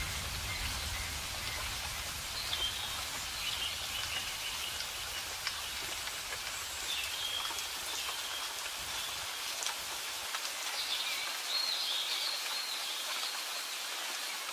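Steady rain falling, an even hiss, with a few faint high bird calls over it now and then.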